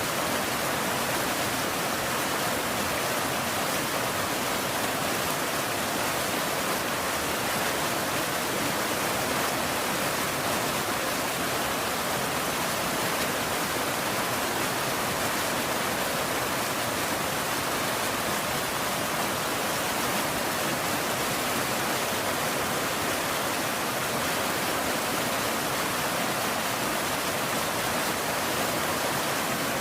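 Steady rain: an even, unbroken hiss with no thunder and no single drops standing out.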